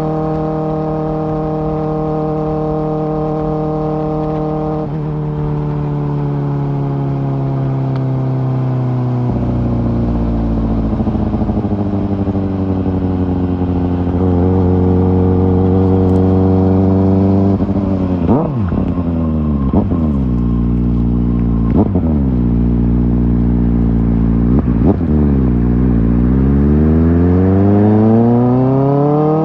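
Kawasaki ZX-4R's inline-four engine through an Akrapovic exhaust, running at a steady pitch for about five seconds, then shifting in pitch. About two-thirds of the way through come several quick rises and drops in revs, and near the end the revs climb in one long rise.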